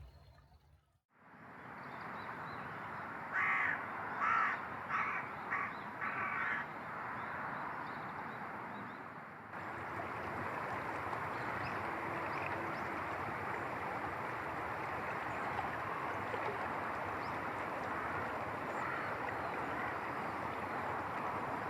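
A crow cawing five times in quick succession over a steady rushing background noise.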